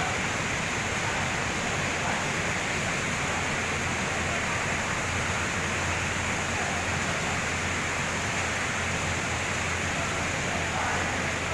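Rain falling steadily: a continuous, even hiss that holds at one level throughout.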